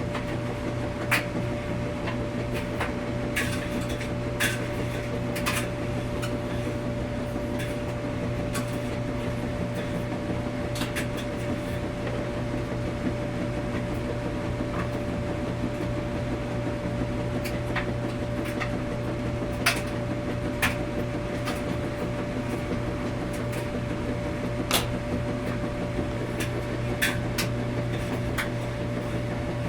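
Washing machine running with a steady low hum and a constant higher tone, with irregular sharp clicks and clinks every second or two.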